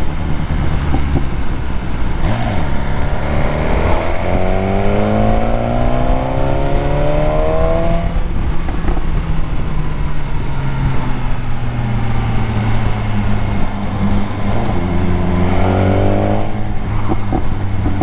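BMW S1000R motorcycle's inline-four engine under way, accelerating hard twice: the engine note climbs steeply for a few seconds, drops back to a steadier lower tone, then climbs again near the end.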